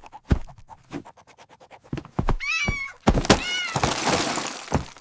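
Cartoon sound effects: a cat meows twice amid sharp thuds and a quick clatter of clicks. After the second meow comes a dense rushing, clattering noise.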